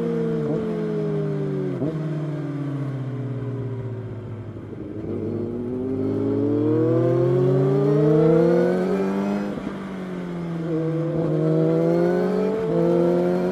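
Kawasaki sportbike engine heard from the rider's seat. Its pitch falls as the bike slows, then rises under throttle through the gears, with sudden quick drops at the gear changes.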